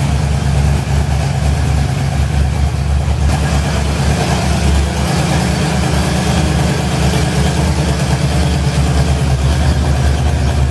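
Rebuilt Ford engine idling steadily on an engine run-in stand, warming up to operating temperature.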